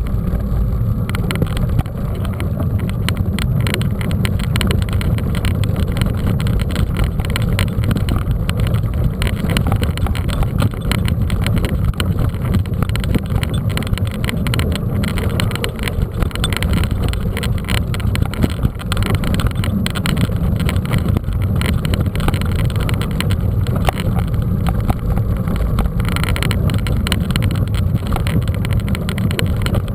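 Riding noise from a mountain bike: a steady low rumble of wind and rolling on the microphone, with constant small rattles and knocks from the bike over rough ground.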